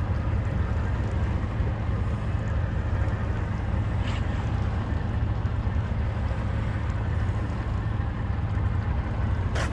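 Motorboat under way: a steady low engine drone with rushing water and wind on the microphone. A sharp click comes near the end.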